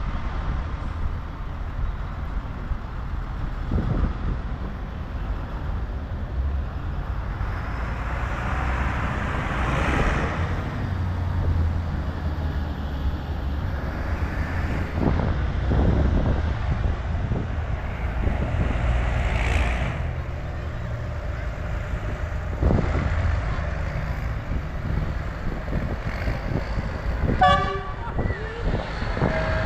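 Tractors driving past with a steady low engine rumble, the noise swelling as individual machines go by. A horn toots briefly near the end.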